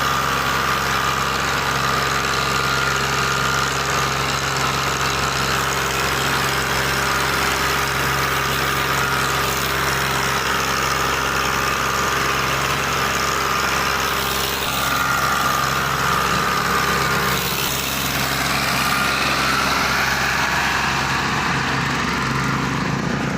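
A tractor engine running steadily, its note shifting slightly a little past the middle.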